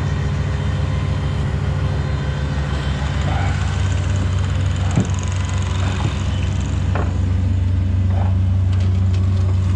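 Truck engine running steadily with a low hum, getting slightly louder in the last few seconds, with a few light clicks over it.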